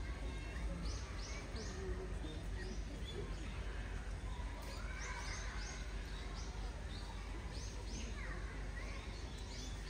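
Outdoor background noise with a steady low rumble, broken by short runs of high bird chirps, two or three at a time, and faint distant voices.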